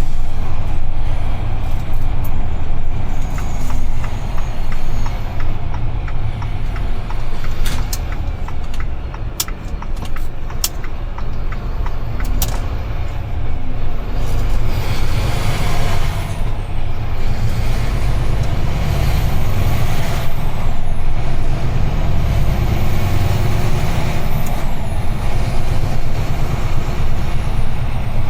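UD Trucks Quon heavy truck running on the road: a steady low engine and road rumble, with a few sharp clicks about a third of the way in.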